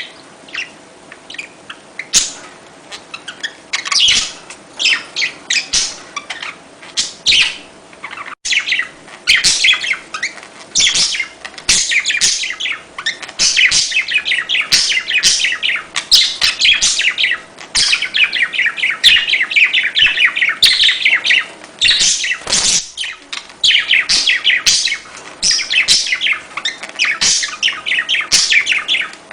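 Budgerigars chattering and warbling: a dense, unbroken stream of rapid chirps, a budgie recording meant to stimulate other budgies to sing.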